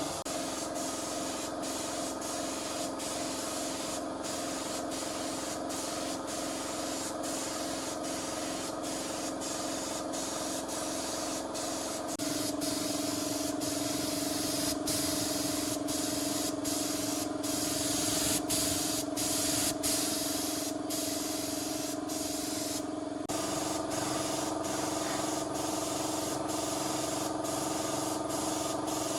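A steady hiss over a steady machine hum. The hum shifts in pitch and gets louder about twelve seconds in, then changes again about twenty-three seconds in.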